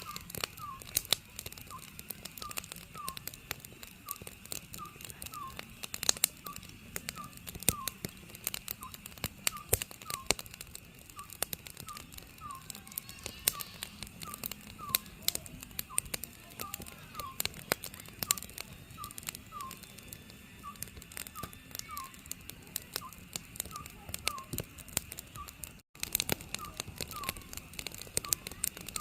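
Oriental scops owl calling over and over, short slightly falling notes about one every two-thirds of a second, over a wood fire crackling with frequent sharp pops. The sound drops out for a split second near the end.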